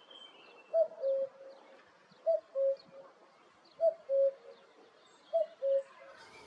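Common cuckoo's song: four falling two-note "cu-coo" calls, evenly spaced about a second and a half apart.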